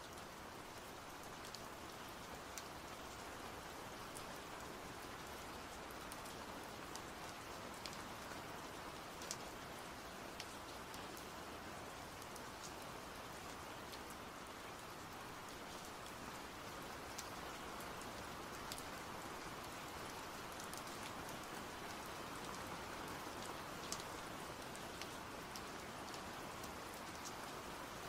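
Steady rain falling, a continuous even hiss with individual drops standing out as scattered light ticks.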